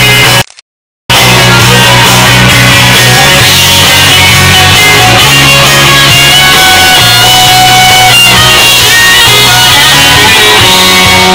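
Live band playing a loud instrumental break of the song, with no singing. About half a second in, the sound drops out to silence for roughly half a second, then the music comes straight back.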